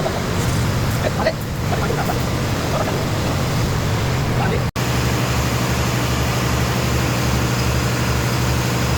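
Workshop noise with scattered small knocks, cut off abruptly about halfway through, then a steady low machine drone with a regular pulse about twice a second.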